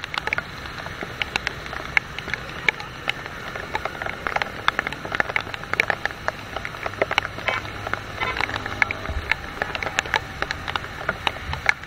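Heavy rain: dense, irregular clicks of raindrops striking close to the microphone, over a low, steady rumble of road traffic.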